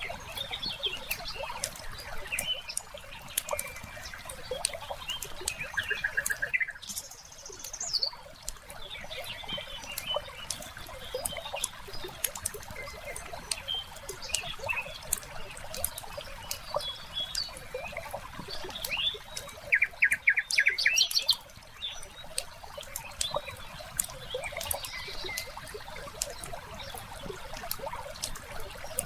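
Wood fire crackling in a fireplace, with thin pops all through, while small birds chirp and trill over it. The loudest moment is a quick, rapid bird trill about two-thirds of the way in.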